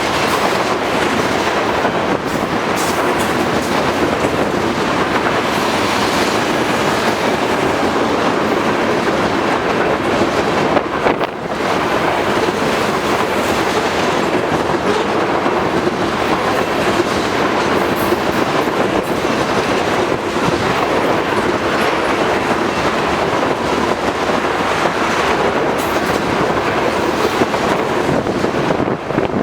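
Crude oil tank cars of a long freight train rolling past, steel wheels running on the rails in a steady, loud rush of noise, with a brief dip about eleven seconds in.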